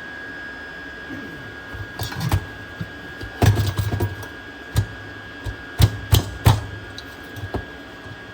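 Sharp clicks and knocks of parts and tools being handled, while working on a diesel heater's blower fan. The knocks come irregularly, a quick cluster about three and a half seconds in and three hard ones close together near the six-second mark, over a steady high-pitched hum.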